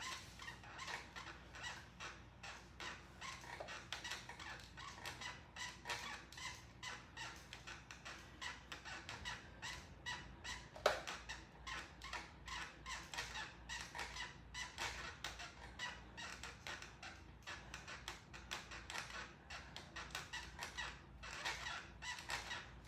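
Stationary exercise bike squeaking in a steady rhythm with each pedal stroke, a few squeaks a second, with one sharp click about eleven seconds in.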